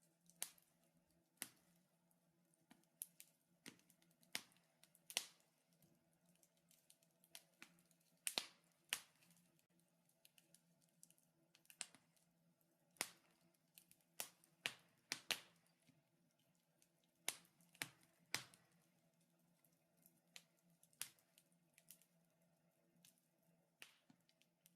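Wood fire in a fireplace crackling: sharp, irregular pops and snaps, about one or two a second, over a faint steady low hum.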